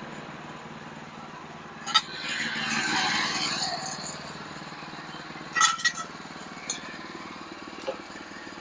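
Sawmill engine running steadily. A sharp metallic clink comes about two seconds in, followed by a rushing swell of noise for a couple of seconds, then several more short clinks and knocks.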